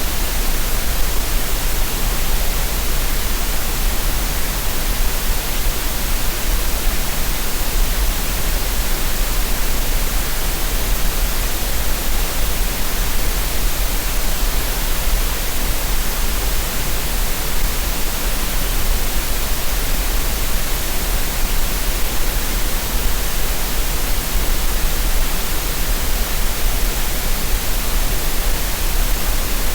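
Steady synthetic green noise: an even, unchanging hiss with extra weight in the deepest bass.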